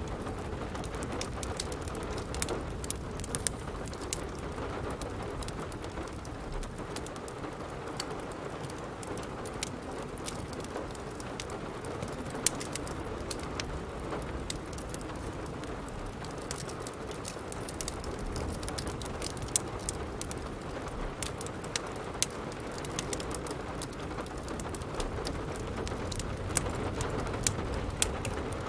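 Steady rain falling, mixed with the irregular snaps and pops of a crackling wood fire in a fireplace.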